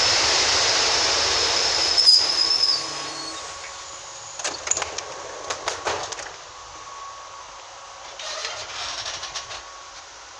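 ED72 electric multiple unit rolling along the platform with a steady high-pitched brake squeal, which stops about two and a half seconds in as the train comes to a halt. A few sharp clicks and knocks follow at a lower level.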